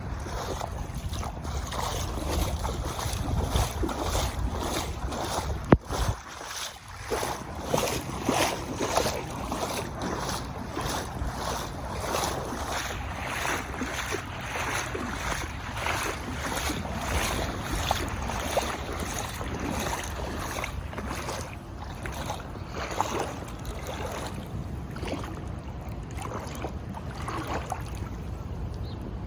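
Floodwater splashing and surging in a steady rushing wash that pulses in quick, even surges, with wind buffeting the microphone. A single sharp knock about six seconds in.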